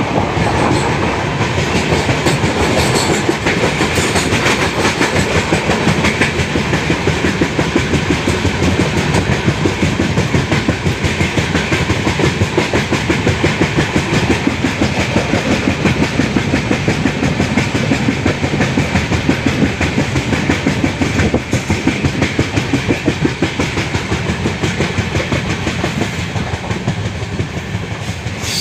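Indian Railways passenger train running at speed, heard from an open coach doorway: a steady rumble with a fast, rhythmic clatter of wheels over the rails.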